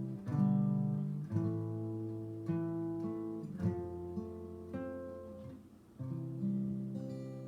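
Acoustic guitar playing the closing chords of a song without voice: six strummed chords about a second apart, each left to ring, the last one fading out.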